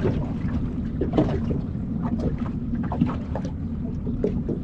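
Boat engine running steadily with a low hum, under wind on the microphone, with scattered short clicks and knocks.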